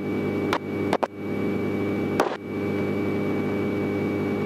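Small training airplane's engine running steadily, heard from inside the cockpit, with three short clicks in the first couple of seconds.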